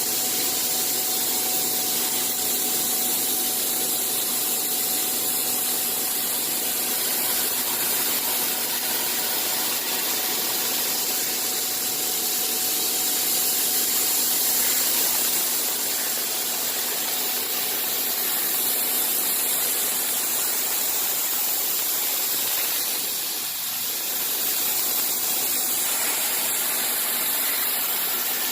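Bystronic CNC machine running steadily: an even hiss with a few steady hum tones underneath, dipping briefly a little before the end.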